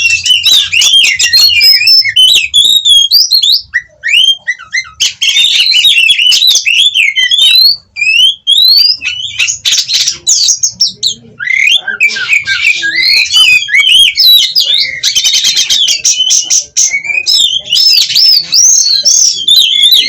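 Oriental magpie-robin (kacer) singing loudly in a fast, varied stream of gliding whistled phrases and rapid trills, with short breaks about four and eight seconds in.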